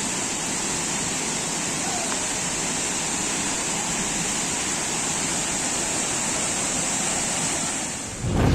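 Steady rushing water of a waterfall. Near the end it gives way to a sudden deep boom.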